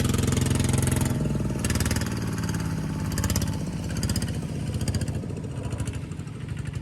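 A small engine running steadily, dropping in pitch about a second in and then running on more roughly while slowly getting quieter.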